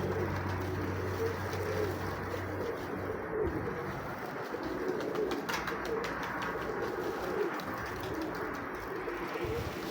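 Domestic pigeons of the Nikolaev breed cooing again and again, a string of short low calls, over a steady background hiss.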